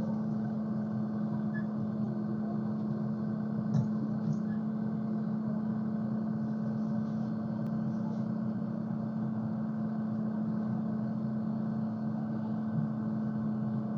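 Car engine and road noise heard inside the cabin while driving at a steady pace: an even, unchanging hum, with a small click about four seconds in.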